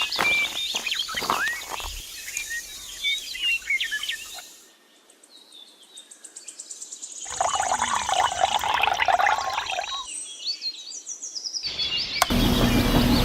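Small birds chirping and calling in outdoor ambience, in several stretches that stop and start abruptly, with a few knocks in the first two seconds. About a second before the end a steady hum cuts in.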